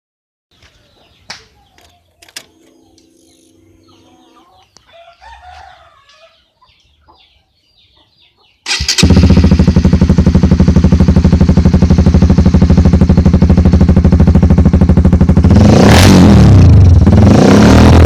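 Honda CB150R's single-cylinder engine starting about halfway through and running through an aftermarket slip-on exhaust, with a fast even beat at idle. It is blipped up twice near the end.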